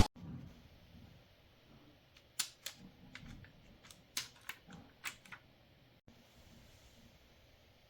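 A run of about eight faint, sharp clicks and taps, irregularly spaced, of small hard parts being handled. They start a couple of seconds in and stop about two seconds before the end.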